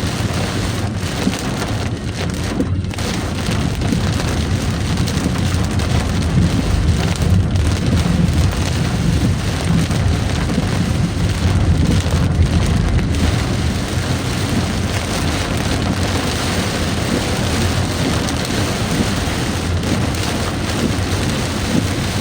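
Pouring rain falling steadily, a dense, even rush of drops with a low rumble underneath.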